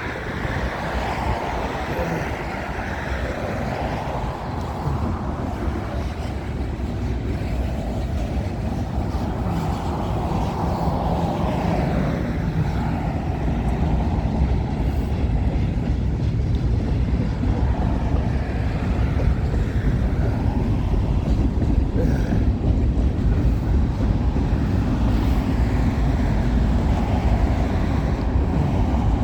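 Freight cars of a CN train rolling past on the rails: a steady rumble and clatter of wheels on track, growing somewhat louder about a third of the way through.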